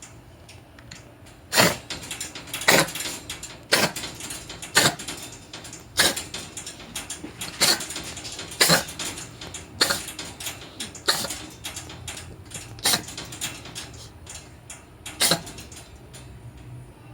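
Bengal cat coughing in a long bout of harsh, sharp hacks, roughly one a second, the kind of cough that can signal feline asthma.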